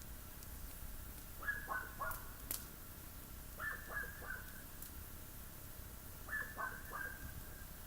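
A bird calling three times, about two seconds apart, each call a quick run of three or four falling notes. A single sharp click is heard between the first two calls.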